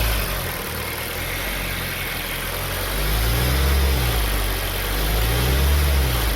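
Freshly rebuilt Hyundai G4KD 2.0-litre four-cylinder engine running at operating temperature during a hot oil-pressure check. It runs at idle, then is lightly revved twice, the pitch rising and falling each time. The oil pressure holds well.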